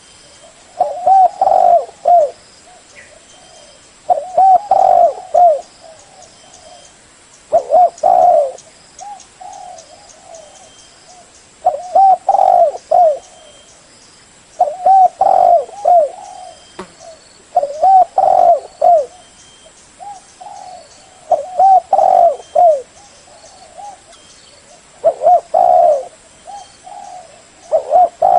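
Spotted dove cooing: a phrase of several low coos, repeated about every three to four seconds.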